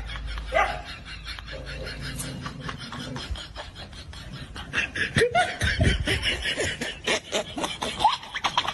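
People laughing in repeated short bursts and snickers, with a little talk mixed in.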